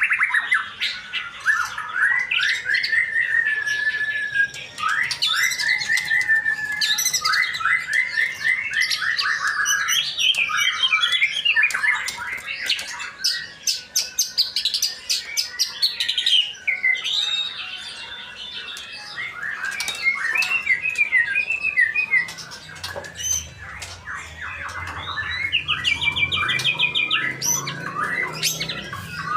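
Male white-rumped shama (murai batu) singing a long, varied song of whistled phrases and rapid trills, with only brief pauses between phrases.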